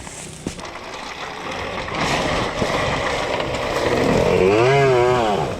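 Gas dirt bike engine getting louder as it comes closer, its pitch wavering up and down with the throttle about four seconds in, then dropping off near the end.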